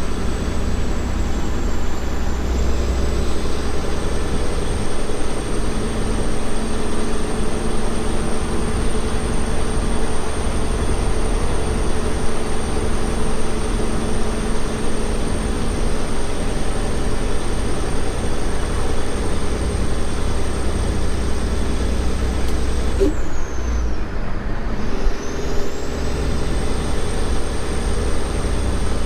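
Semi truck's diesel engine running steadily, with a thin high whine above the engine hum.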